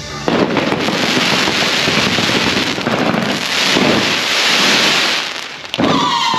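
Firecrackers going off in a dense, continuous crackle that stops near the end, when music with a held pitched tone comes in.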